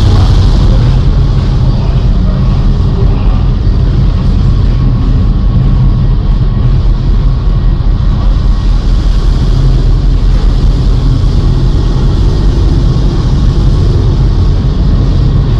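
Loud, steady low rumble and drone aboard a sailboat in storm conditions: wind and sea noise over a constant low hum like a running engine.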